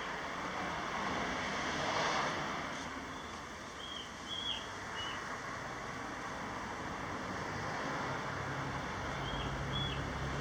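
Steady outdoor rushing noise, like wind and distant traffic, with a few short high chirps, a pair around the middle and a pair near the end.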